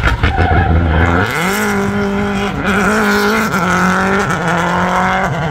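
Rally car engine at full throttle: a low rumble that revs up steeply about a second in and then holds at high revs, dipping briefly a few times.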